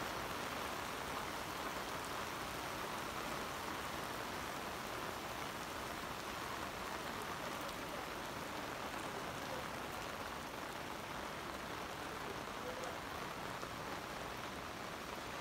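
Heavy rain falling steadily onto a wet road and parked cars, an even downpour that does not let up.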